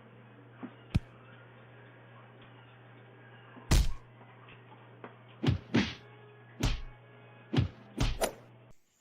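A series of about eight loud, sharp thumps at irregular intervals over a faint steady hum. The hum cuts off abruptly just before the end.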